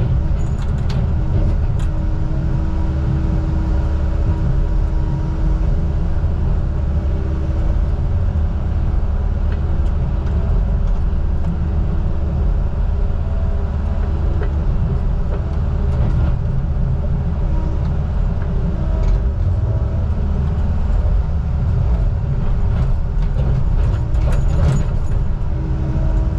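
Heavy truck engine running steadily, a constant low drone with a steady hum over it.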